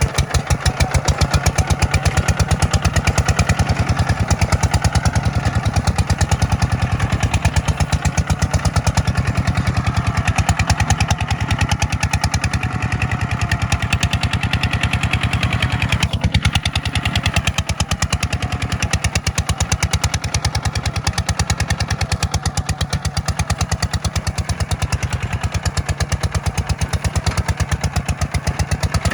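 Kubota tractor's diesel engine running steadily while plowing, its firing an even rapid beat, with one short knock about halfway through.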